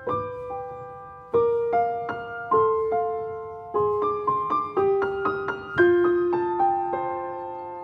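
Background piano music: single notes and chords struck and left to ring, in a slow, gentle melody.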